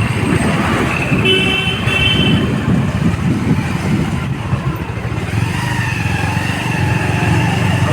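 Motorcycle ride on a road: loud low rumble of engine and wind on the microphone, with a vehicle horn sounding for about a second from about one second in.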